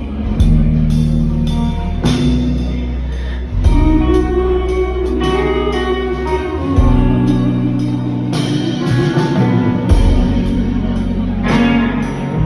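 Rock band playing a slow instrumental passage between sung lines: guitar over sustained bass notes and a drum kit, with no singing.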